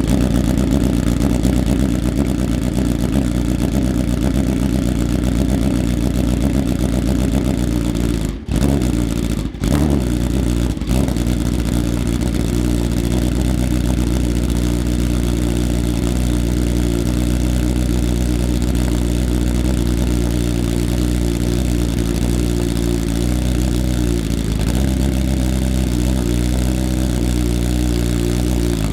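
BMW S1000RR 999 cc inline-four sport-bike engine idling steadily through its exhaust. The pitch dips slightly about 25 seconds in and again near the end. The sound briefly drops out twice at around eight and nine seconds.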